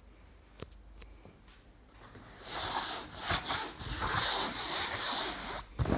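Two light clicks, then a few seconds of loud rubbing and scuffing, as of something being handled or slid against a surface, ending in a thump.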